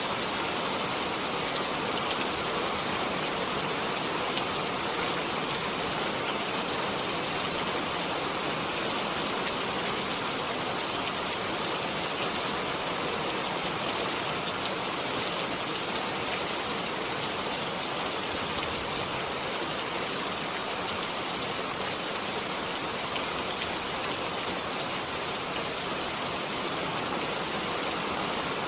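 Steady rain falling, an even dense hiss with scattered drop ticks and no change in strength.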